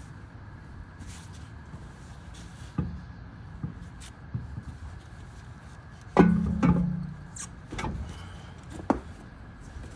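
A few sharp metallic knocks and clanks of brake parts and tools being handled, over a steady low hum. The loudest clank comes about six seconds in and is followed by a brief low ringing.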